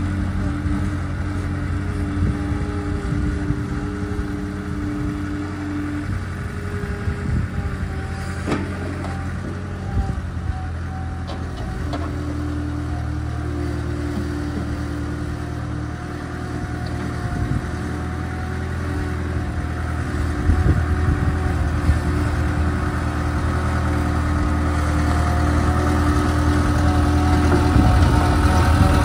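Skid steer engine running under load as it works, its speed dropping about a fifth of the way in and climbing again toward the end, with occasional knocks and clatter.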